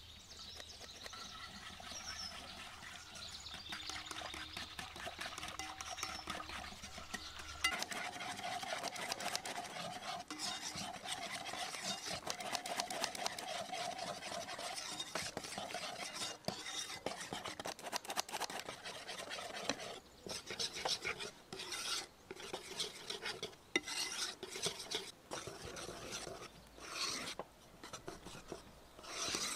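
A utensil stirring and scraping against a bowl, mixing ingredients. It is steady at first, then breaks into separate strokes with short pauses over the last third.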